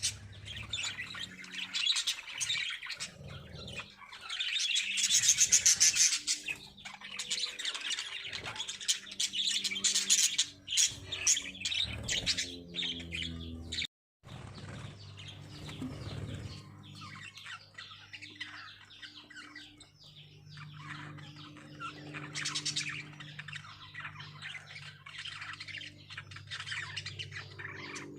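A flock of lovebirds chirping and squawking in rapid, continuous chatter. It is loudest about five to six seconds in and breaks off for a moment about halfway through.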